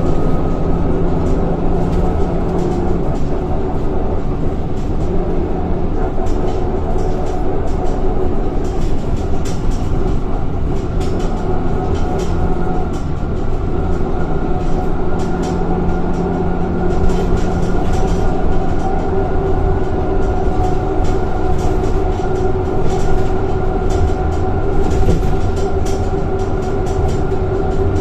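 Scania K230 bus's five-cylinder diesel engine and ZF automatic gearbox running under way, heard from on board, with steady engine tones that shift in pitch as the bus changes speed and gears. Frequent small clicks and rattles run over it.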